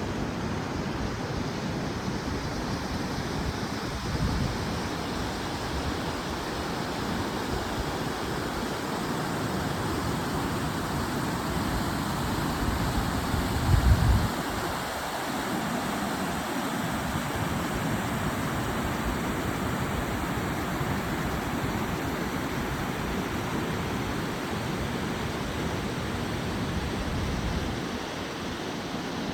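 Steady rushing outdoor noise, with gusts of wind buffeting the microphone about four seconds in and, loudest, about fourteen seconds in.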